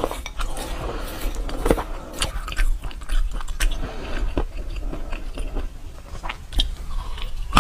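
Someone chewing a mouthful of peanuts in chili oil, with sharp, irregular crunches. A plastic spoon scrapes and clicks against a glass plate while scooping more peanuts.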